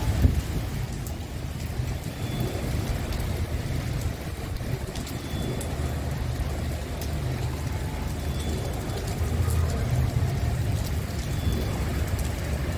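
Rain falling at night, heard as an even hiss, under a loud, unsteady low rumble that is the strongest part of the sound.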